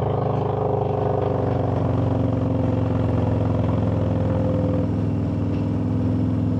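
Harley-Davidson V-twin motorcycle engine running steadily while riding, with a higher tone that slowly falls in pitch over the first few seconds.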